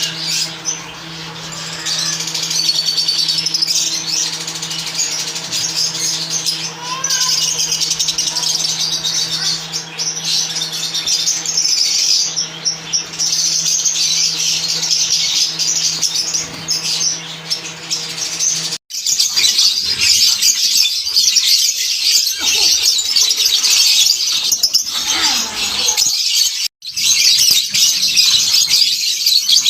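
A flock of lovebirds chattering with dense, continuous high-pitched chirps, broken off for an instant twice, about two-thirds of the way through and near the end.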